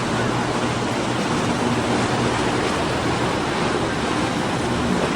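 Low, steady drone of power boat engines over a constant rush of water and wind.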